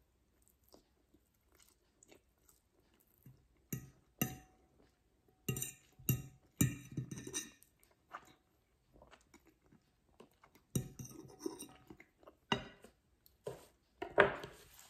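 A person chewing a mouthful of spaghetti close to the microphone, in irregular short bursts. A few faint clicks come first.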